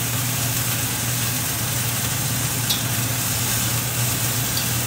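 Water spinach sizzling in a thin wok heated on high: a steady hiss over a steady low hum, with a couple of light clicks in the second half as the greens are stirred.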